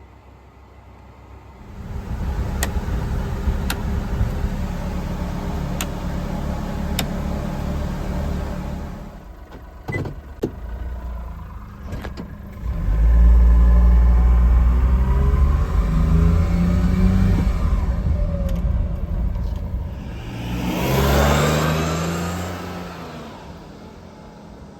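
Daihatsu Hijet kei truck's small three-cylinder engine running, its revs climbing under acceleration about halfway through and again near the end, with a few sharp clicks in the first half.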